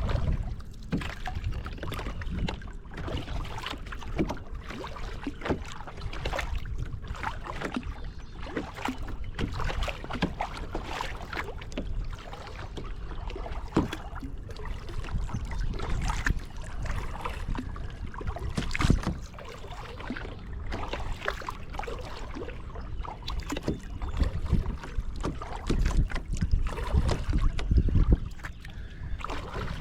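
A kayak being paddled: irregular splashes and drips as the paddle dips into the water, with a couple of sharper knocks and a steady low rumble underneath.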